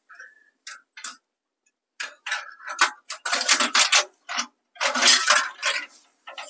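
Small sharp clicks, then clattering and scraping handling sounds that get busier and louder from about two seconds in.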